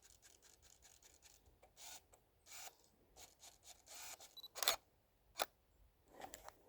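Canon EOS 1200D DSLR being handled: a run of small clicks and rubs, then a sharp shutter click about four and a half seconds in and another short click a moment later.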